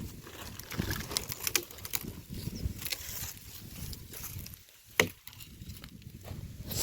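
Dry firewood branches being handled, crackling and snapping irregularly, with one sharp loud crack about five seconds in.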